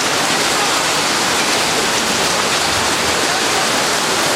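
Heavy downpour of thunderstorm rain, a steady dense hiss that does not let up.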